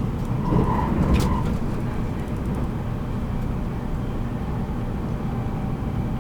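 Running noise of a JR Kyushu 783 series electric train, recorded in motor car MoHa 783-13: a steady rumble of wheels and motors on the track. About a second in there is a brief higher tone and a sharp click.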